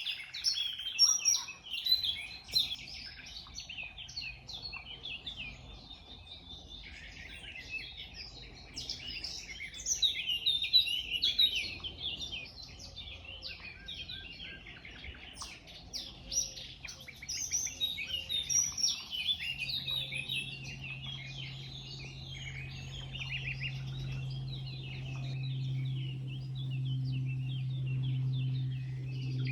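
Many wild birds chirping and singing at once in a dense, overlapping chorus of high calls. About twenty seconds in, a steady low hum joins and slowly grows louder beneath the birdsong.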